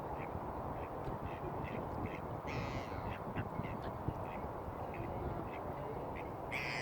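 Waterside birds calling: short repeated chirps throughout, with two louder, harsher calls about two and a half seconds in and near the end, over a steady low background rumble.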